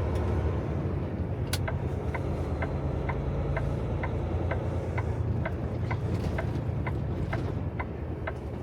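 Semi truck's turn signal ticking evenly about twice a second inside the cab, over the steady low drone of the truck's engine and road noise.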